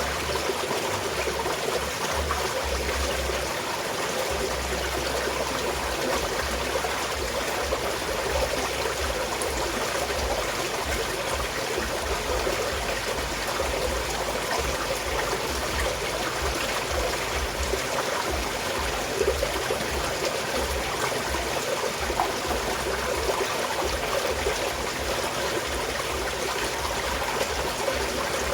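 Small mountain stream flowing and trickling steadily, an even rush of water with a few small splashes.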